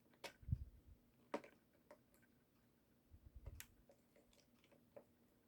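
A few faint sharp clicks and soft knocks of small plastic parts being handled, as the little motor of a dancing toy's arm mechanism is worked into its housing.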